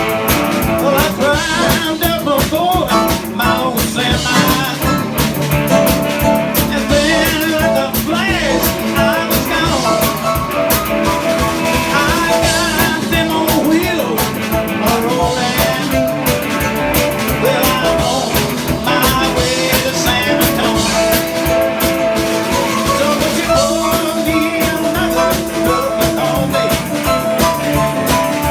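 A live band playing an upbeat rock-and-roll number, with electric guitar over a steady drum beat.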